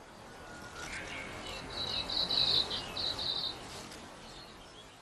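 Forest ambience with a high, pulsing trill from an insect or a bird, lasting about two seconds in the middle, over a soft steady hiss.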